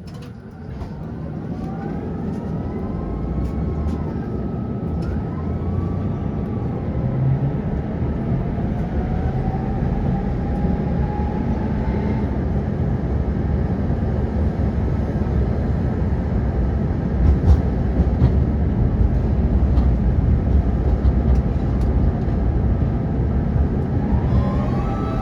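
Electric tram running on its rails, with a steady low rumble. The traction motors whine in gliding pitches that rise as the tram gathers speed over the first several seconds.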